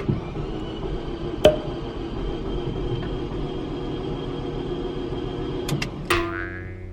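Fiat 500 engine cranking steadily on the starter without catching, with a sharp click about a second and a half in. Near the end the cranking stops and a different pitched tone starts.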